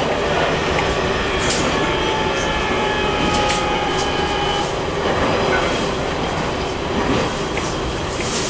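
Running sound of a JR East E721-500 electric train with Mitsubishi IGBT-VVVF control, heard inside the car: a steady rumble of wheels on rail with a few sharp clicks. A steady whine stops about halfway through.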